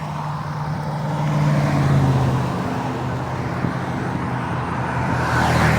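Road traffic noise: a steady low engine hum under a rushing rumble, with a vehicle swelling past near the end.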